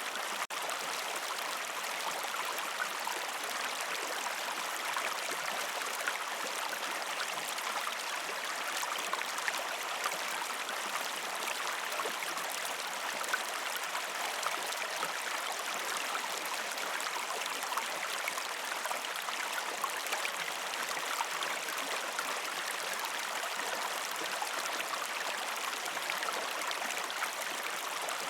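Shallow river stream flowing over rocks: a steady rushing, babbling wash of water, with a split-second dropout just after the start.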